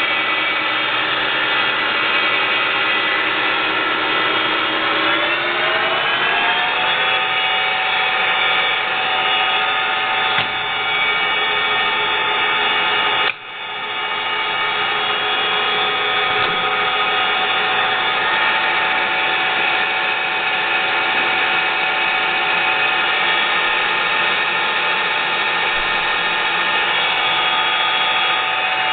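Vectrax 1760EVS engine lathe running on its variable-speed drive: a whine of many steady tones that climbs in pitch about five to seven seconds in as the spindle speeds up, then holds steady. The level dips briefly about 13 seconds in.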